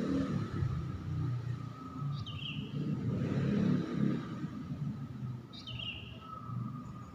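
A bird calling twice, each a short call that drops in pitch and then holds, about three and a half seconds apart, over a low, uneven rumble.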